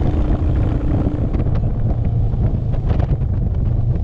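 Motorcycle running at road speed, a steady low rumble, with wind buffeting the microphone.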